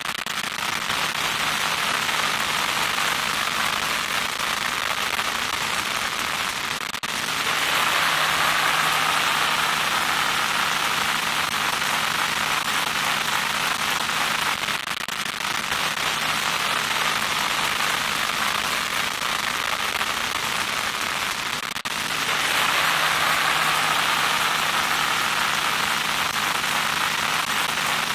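Loud static noise: a dense, crackling hiss over a faint steady hum. It breaks off briefly about every seven seconds and comes back with a slightly different tone, as if looped.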